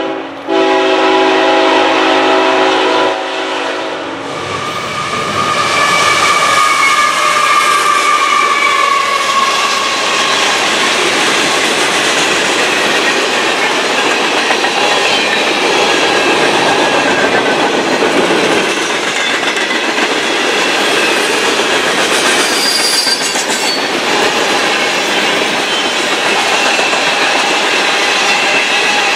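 Freight locomotive horn sounding a chord of several notes for about four seconds, then the train passing close by: a loud, steady rolling rush of tank cars with high wheel squeal, strongest in the first few seconds of the pass.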